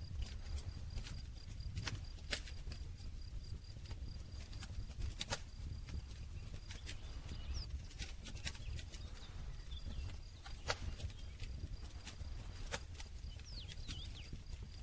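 Campfire crackling: irregular sharp pops and snaps from burning wood over a low, steady rumble, with a few louder pops, one of the loudest near the middle.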